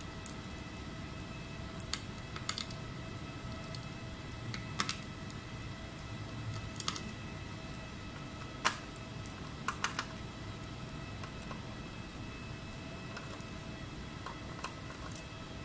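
Scattered light clicks and taps, about a dozen, the sharpest near the middle and a quick triple just after, over a steady electrical hum with faint whine tones.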